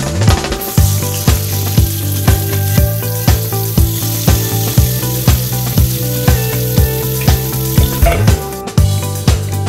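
Stuffed pointed gourd (parwal) halves sizzling in hot oil in a kadhai, under background music with a steady beat of about two strokes a second. The sizzle starts just after the gourds go into the oil and drops away near the end.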